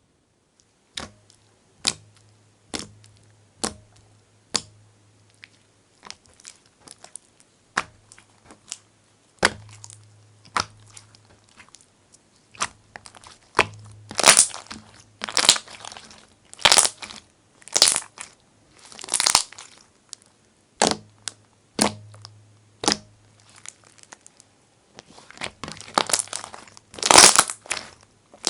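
Homemade slime being pressed and pulled by hand, giving sticky clicks and crackles. At first the clicks are single and sharp, about once a second. Later they become longer crackly squishes at about the same pace, with a denser run near the end.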